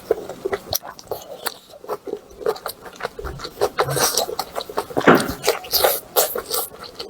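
Close-miked eating sounds: a rapid run of wet chewing smacks and clicks, with a few scrapes.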